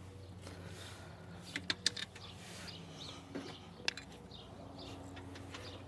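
A few sharp clicks and taps, a cluster about one and a half seconds in and another near four seconds, over a steady low hum, with faint bird chirps in the background.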